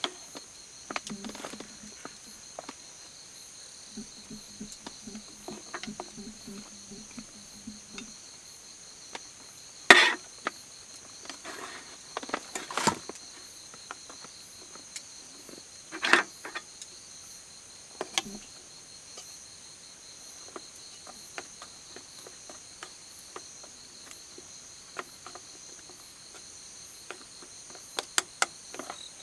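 Insects, crickets among them, chirping steadily at night, over a campfire crackling with scattered small clicks and three louder pops spread through the middle.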